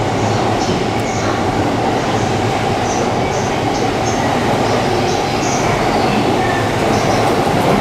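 Electric commuter train (JR E233 series) running into a station platform: a steady rolling rumble, with short high-pitched squeaks coming and going throughout.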